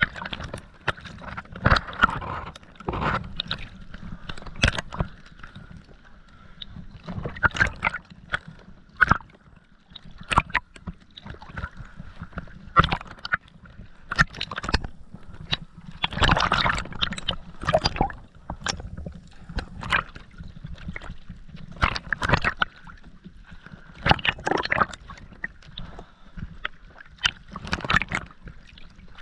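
Scuba diver's exhaled bubbles gurgling underwater, coming in irregular bursts every second or two, some longer bursts lasting about a second.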